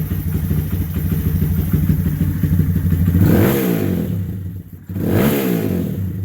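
Honda Grom's single-cylinder four-stroke engine with a dual high-mount muffled exhaust, idling cold, then blipped twice: the pitch rises and falls about three seconds in and again about five seconds in.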